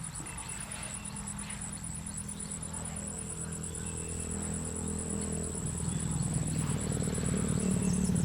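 Insects trilling steadily in a high, finely pulsing tone, over a low steady hum that grows louder in the last few seconds.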